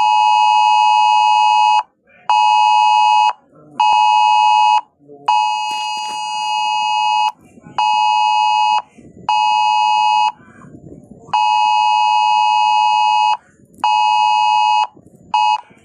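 Electronic storm-warning alarm: a loud, harsh buzzing tone sounding in on-off pulses of uneven length, mostly about a second each, with one very short blip near the end.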